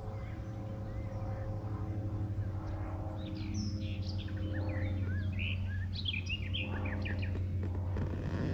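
Small birds chirping in quick, high, gliding notes from about three seconds in until near the end, over a steady low hum.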